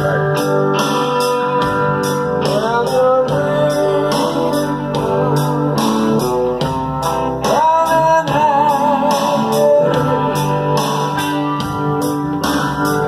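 Guitar strummed in a steady rhythm while a voice sings two long, wavering phrases, a few seconds apart.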